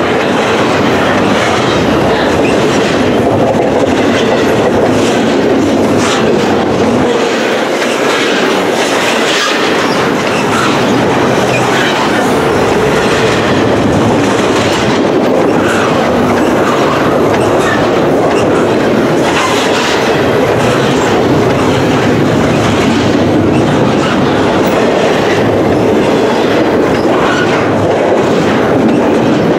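Double-stack intermodal freight train's well cars rolling past at speed: steel wheels clicking and rumbling over the rails in a steady, loud run of car after car.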